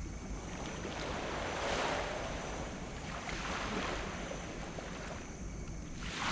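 Small tropical waves washing up on a sand beach. Two break and draw back, about two and four seconds in, and a larger one builds at the end, over a steady low rumble.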